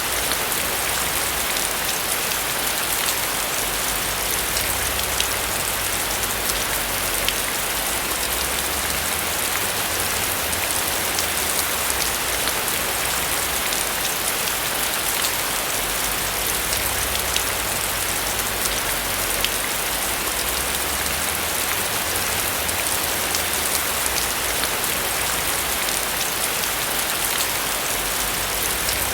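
Steady rain falling on a roof: a continuous hiss dotted with many small drop ticks, unchanging throughout.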